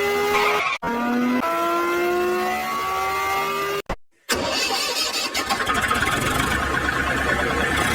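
A vehicle engine: first a pitched whine that climbs slowly as it revs up, broken by short dropouts. About four seconds in it cuts off suddenly, and a rougher, pulsing engine running follows.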